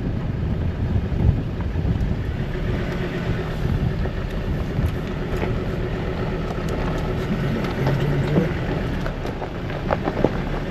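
Steady vehicle rumble mixed with wind noise on the microphone.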